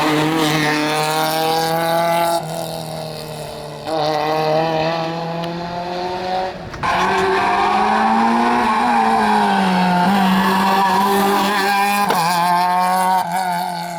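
Rally car engine revving hard on a stage, the note climbing and falling repeatedly with brief breaks where the driver lifts off or shifts gear, about two and a half, seven and twelve seconds in.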